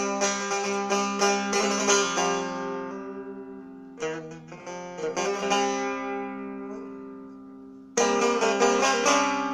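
Farhadi Persian setar with a small Haj Taher-style bowl, played solo in quick plucked notes over ringing drone strings. Phrases ring out and fade twice, and fast, loud playing comes back abruptly near the end.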